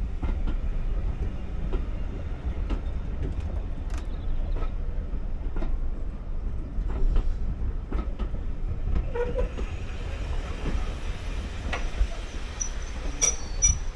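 Train running on a preserved railway: a steady low rumble with irregular clicks and rattles, and a brief high-pitched squeal near the end.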